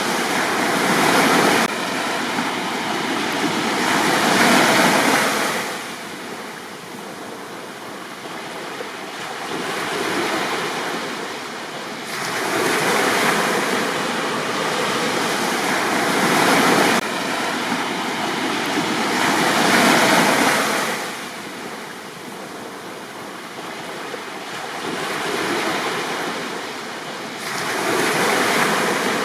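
Sea waves breaking and washing up a beach, the rush of surf swelling and falling back every few seconds.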